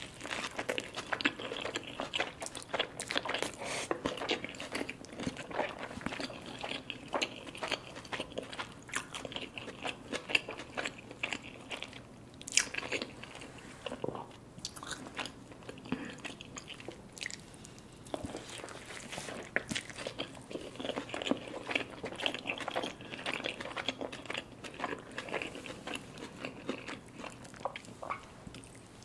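A bite into a large burrito, then steady chewing of the mouthful, with a dense run of small clicks and crackles; the chewing quietens for a few seconds about halfway through.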